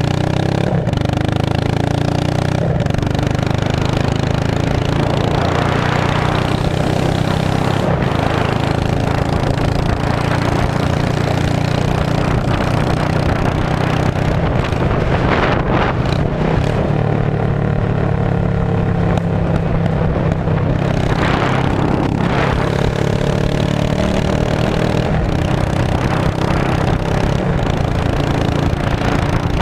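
Straight-piped 2002 Yamaha V-Star 650's air-cooled V-twin running steadily with a loud, deep exhaust note, with a few brief swells in level, and a few sharp clicks in the first seconds.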